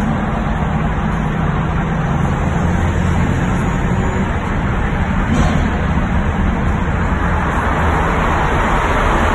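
BMW M3 E92's 4.0-litre V8 engine running steadily and loud, with no clear revs.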